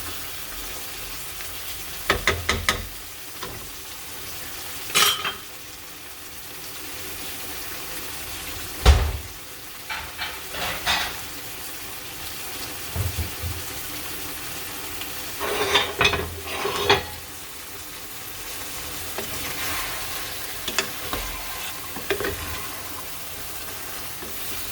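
Chicken, vegetables and tomato sauce sizzling and simmering in a pan, with a steady hiss. A utensil stirs, scrapes and knocks against the pan in short bursts every few seconds. The loudest knock comes about nine seconds in.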